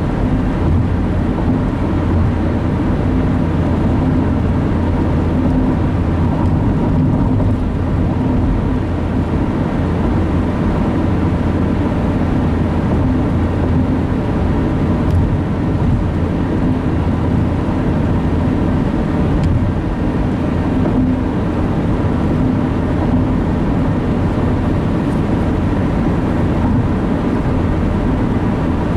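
Steady road and engine drone inside a moving car's cabin at highway speed, even and unbroken.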